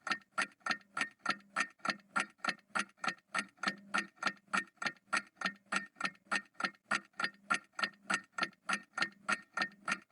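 Clock ticking steadily, about four evenly spaced ticks a second.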